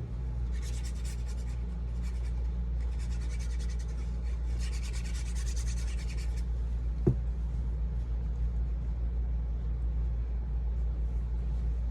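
Scratchy strokes on paper in several short bursts over the first six or so seconds, with one sharp tap about seven seconds in, over a steady low rumble.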